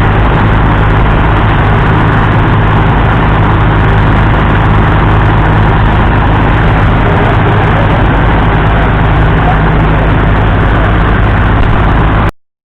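Rolls-Royce Eagle 12.17-litre six-cylinder diesel of a 1977 Scammell Crusader idling steadily. The sound cuts off abruptly near the end.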